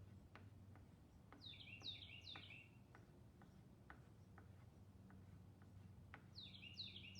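A bird calling faintly outdoors: a quick phrase of three notes, each sliding down in pitch, heard twice about five seconds apart, over faint scattered ticks.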